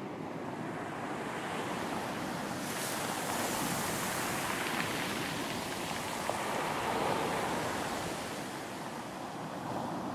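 Ocean waves surging and washing on a beach: a hissing surge builds about three seconds in, swells, and ebbs away near the end, over a steady rumble of surf.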